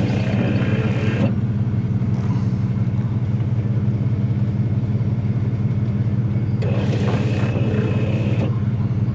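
A car engine running steadily with a low, even drone, joined twice by a rush of hissing noise, once at the start and again about seven seconds in.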